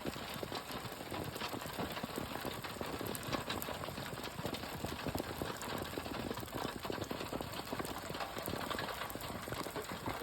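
Rain falling steadily: a continuous hiss dotted with the dense patter of many drops.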